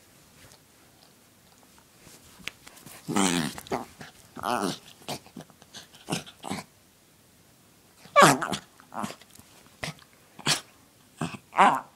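Dachshund making a run of short, weird noises and sneezes, about eight separate bursts, the loudest about two-thirds of the way through.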